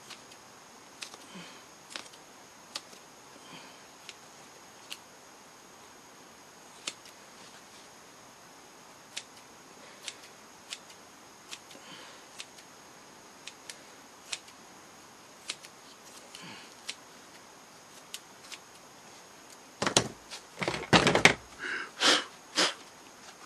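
Scissors snipping foam rubber: single short snips, spread out about once a second, as a puppet's foam brow is trimmed. Near the end comes a cluster of louder knocks and rustles from handling.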